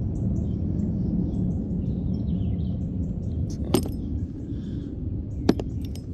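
Steady low background rumble with two sharp metallic clinks, one a little under four seconds in and one near the end, as small metal parts or tools are handled.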